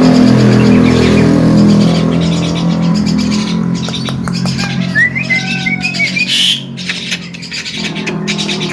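Javan myna (jalak kebo) calling: mixed chattering and squawky notes, with a quick series of short rising whistled chirps past the middle.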